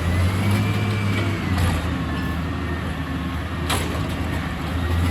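Refuse truck's diesel engine revved up and held high, a deep steady drone with a faint whine that rises and then falls above it. A single sharp click about three and a half seconds in.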